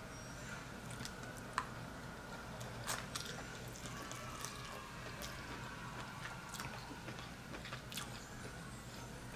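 Close-miked mukbang eating sounds: king crab leg shells being worked open, with scattered sharp cracks and clicks, and some biting and chewing.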